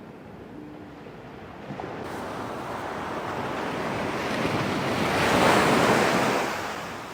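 Sea wave breaking and washing up the shore, a rising rush that swells to its loudest about five to six seconds in and then dies away.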